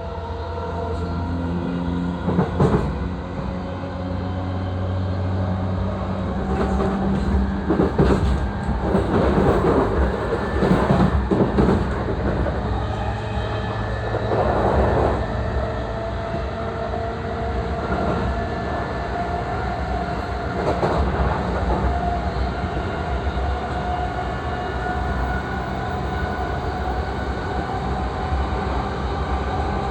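JR East E233-3000 series electric train running, heard from inside the car: a steady motor and inverter hum under wheel-on-rail rumble, with several louder rushes of rail noise.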